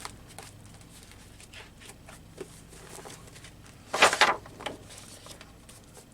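Paper and book handling: light taps and rustles as a trimmed sheet of paper is laid on and shifted over a page of a collage book, with one louder brief rustle of paper about four seconds in.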